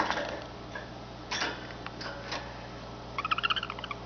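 Small pet bird giving a quick chattering call of about ten rapid notes near the end, after a few sharp clicks.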